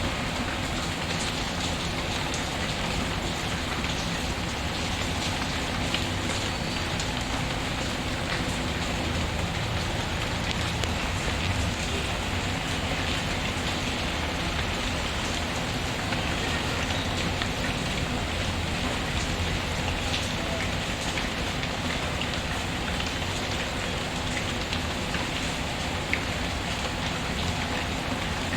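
Steady rain hissing evenly, mixed with a wood fire crackling: occasional faint pops and clicks over the rain.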